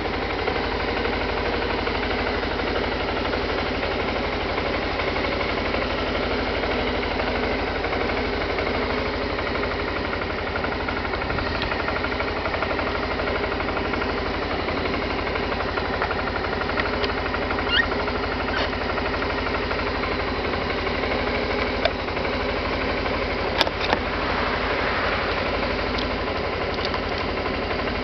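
Suzuki Skywave 250 scooter's single-cylinder four-stroke engine idling steadily, with a few light clicks in the second half.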